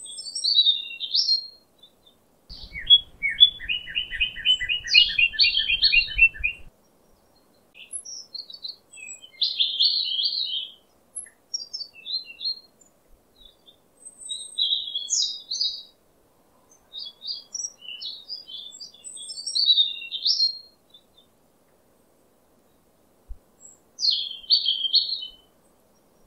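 Songbird chirping in short, separate phrases with pauses between them, including a run of quick repeated notes about three to six seconds in.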